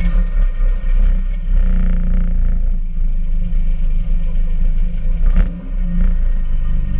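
Peugeot 206 RC's 2.0-litre four-cylinder engine idling inside the caged cabin of the stationary car, the revs rising and falling a little. A single sharp click about five seconds in.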